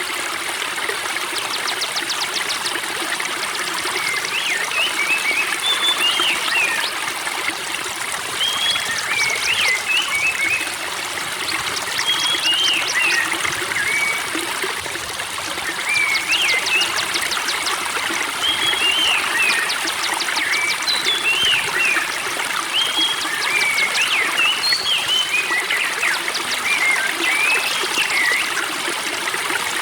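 Spring water trickling and babbling steadily, with birds singing over it: short whistled phrases of rising and falling notes, broken by bursts of fast ticking trills.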